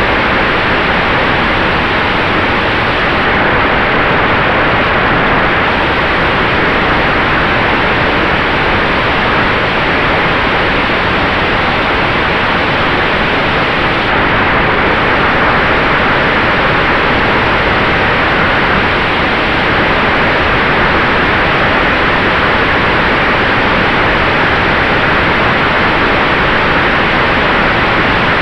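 Sonex Xenos electric airplane in cruise flight: a loud, steady rush of airflow and propeller noise with a faint steady whine under it.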